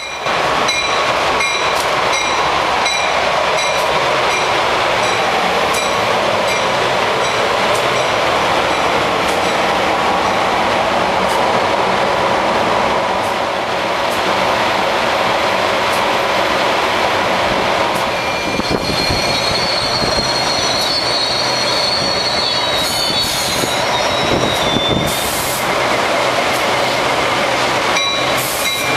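New Jersey Transit electric commuter train running past on the rails, with steady wheel-and-rail noise. Sharp clicks of wheels over rail joints come in the first few seconds, and a high wheel squeal sounds from about eighteen to twenty-four seconds in.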